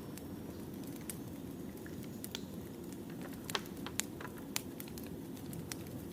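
Wood fire crackling: a steady low rumble of burning logs with scattered sharp pops, the three loudest coming close together in the middle.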